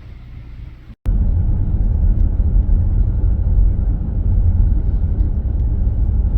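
Steady low rumble of a minivan driving, heard from inside the cabin. It drops out briefly about a second in and comes back much louder.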